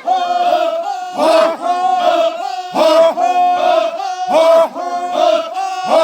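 A group of men shouting together in loud, repeated cries, a new call rising and falling about once a second.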